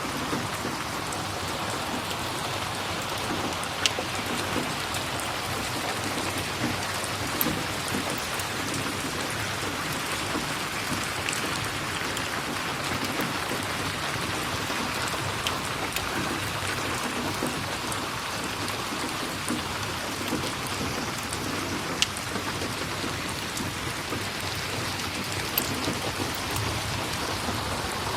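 Steady rain falling, with a few sharp pops scattered through it.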